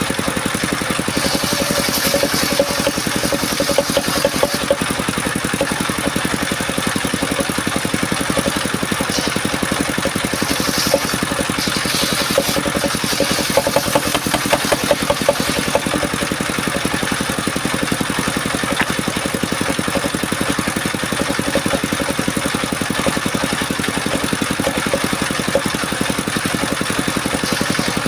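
Engine of a mobile circular-saw sawmill running steadily with a fast, even firing beat, with a few short stretches of brighter hiss laid over it.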